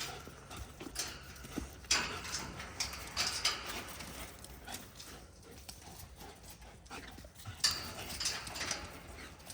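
Dogs moving about: irregular scuffs and clicks, with a few louder rustling bursts about two seconds in, about three and a half seconds in, and again later.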